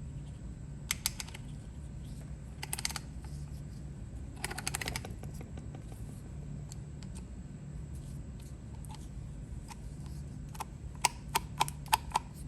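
Small metal ratchet mechanism of a Lowell square-drive ratchet being worked by hand: a few short bursts of clicking, then a run of about six sharp clicks near the end.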